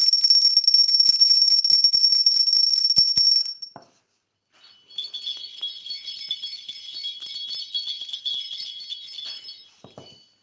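Two high-pitched, shimmering, jingling sound effects. The first is loud and carries one steady ringing tone for about three and a half seconds. After a brief gap comes a quieter one with several ringing tones, lasting about five seconds.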